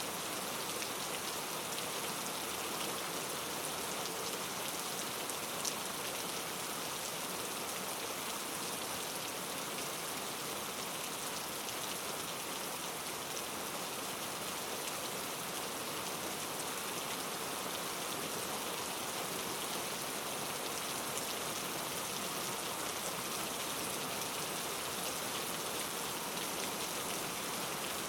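Steady rain falling on a surface, an even hiss of many drops with fine individual patters.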